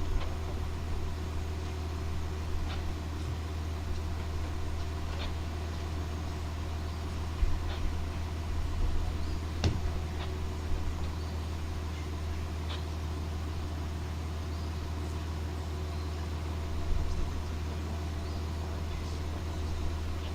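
A steady low engine hum with a few faint clicks and knocks scattered through it.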